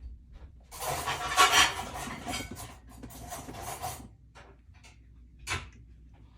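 Clattering and rummaging of hard household objects, loudest in the first few seconds, then one sharp knock about five and a half seconds in.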